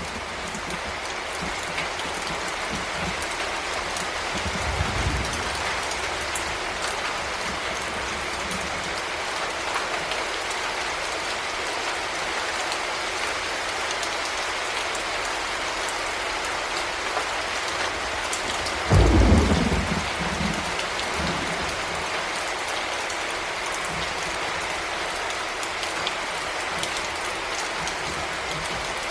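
Heavy rain falling steadily, with a faint low rumble of thunder about five seconds in and a louder, sudden thunderclap about nineteen seconds in.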